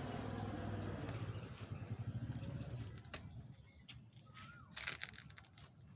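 Small birds chirping in short, evenly repeated high notes over a low rumble that fades out about three seconds in. Later come a few light clicks and one sharper click near the end.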